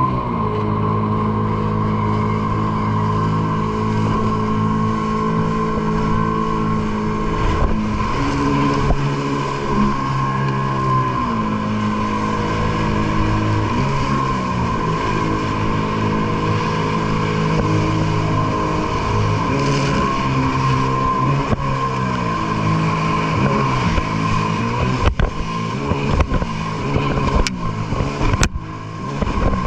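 Sea-Doo Spark jet ski's three-cylinder engine running hard, its pitch rising and falling repeatedly with the throttle through the manoeuvres. Near the end the sound breaks up with a few sharp knocks and brief dropouts.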